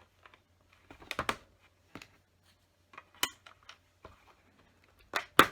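Plastic LEGO bricks clicking and clattering as pieces are handled and pressed together: a scattering of sharp clicks, with the loudest near the end.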